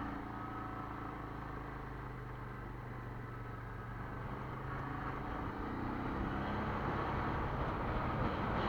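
Quad bike (ATV) engine running as it rides along, its sound growing gradually louder through the second half.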